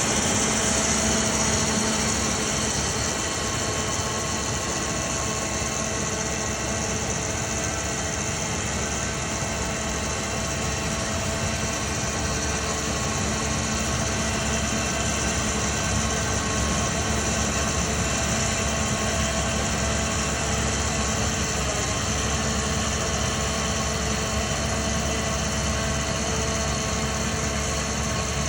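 An engine running steadily at constant speed, with a steady hum and low rumble that does not change.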